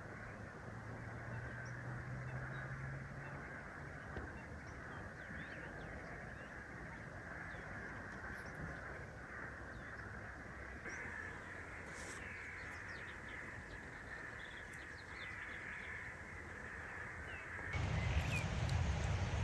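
Outdoor ambience: a steady hiss of background noise with faint, short bird calls scattered through it. Near the end a louder, lower rushing noise comes in.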